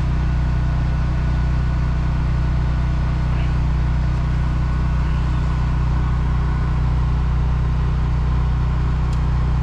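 John Deere 724J loader's common-rail diesel engine idling with a steady, even low drone. The engine is being checked for a misfire.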